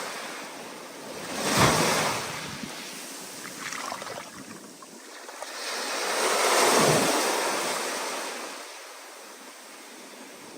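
Ocean waves surging and breaking on the shore: one sharp crash about a second and a half in, then a longer, broader wave rising and falling off, with a steady wash of surf between them.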